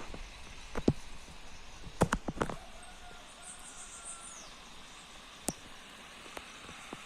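A few sharp cracks and knocks over a steady outdoor hiss: one about a second in, a quick cluster of several around two seconds, and a single one past the five-second mark. A faint high chirping is heard briefly about halfway.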